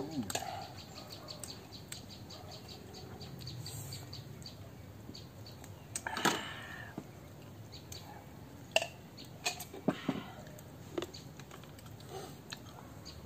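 Quiet outdoor ambience with faint bird chirps repeating several times a second. One louder, harsher sound comes about six seconds in, and a few sharp clicks follow a few seconds later.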